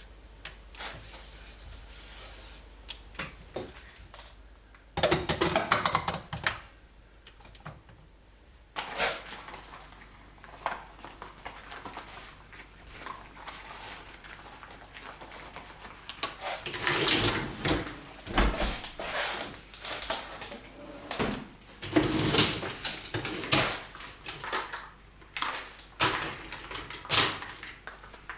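Household cleaning: things being handled and set down, with scattered knocks and clunks and several bursts of rustling.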